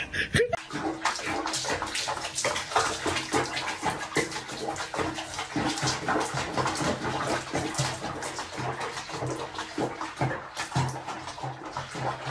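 Water splashing and sloshing, a busy irregular patter throughout.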